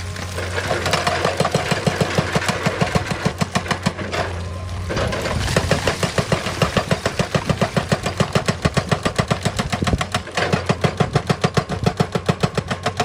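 Excavator's hydraulic rock breaker hammering stone in a fast, even stream of knocks over the diesel engine's steady drone, stopping briefly twice.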